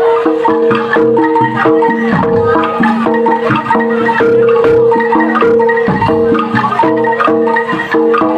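Live gamelan-style music. Tuned metal percussion plays quick, repeating struck notes over a held tone, with low drum strokes marking the rhythm.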